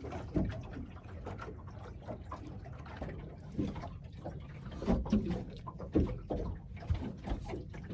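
Irregular light knocks and clicks of handling on a small boat, a little louder around five to six seconds in.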